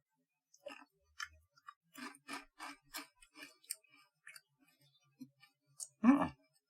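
Crunchy air-fried okaki rice crackers being chewed: a run of short, crisp crunches, about two or three a second, then a brief murmured 'mm' near the end.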